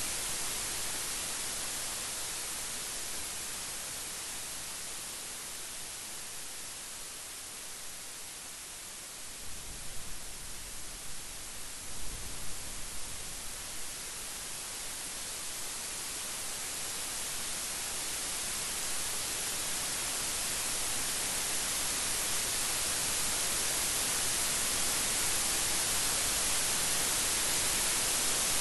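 Steady hiss of heavy rain that eases and then swells louder through the second half, with brief low rumbles of thunder about ten and twelve seconds in.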